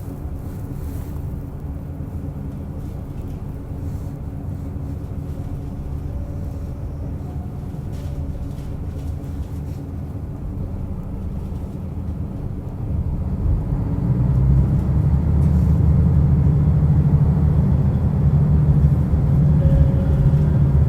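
Diesel railcar running along the line, heard from inside the car: steady rumble of wheels on rail with the diesel engine humming underneath. About 13 seconds in the engine powers up and the sound grows clearly louder and deeper.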